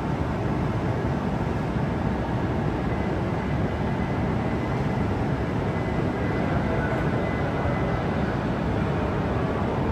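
Steady hum of a stationary E8 series Shinkansen standing at the platform, its onboard equipment running, with a faint steady whine partway through.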